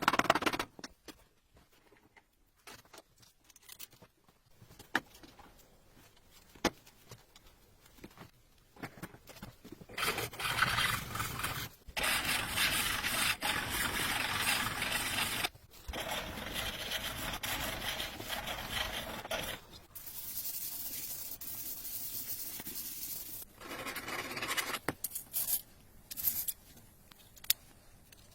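Steel blade being scraped and rubbed by hand. Scattered light clicks give way, about ten seconds in, to long rasping passes several seconds each, with short breaks between them.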